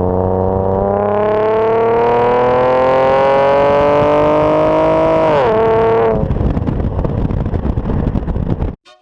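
Chevrolet Camaro's exhaust, fitted with Dynomax Race Bullet mufflers, at wide-open throttle: the engine note climbs steadily through one gear for about five seconds, dips as the throttle is lifted, then breaks into a rough rumbling crackle. The sound cuts off abruptly near the end.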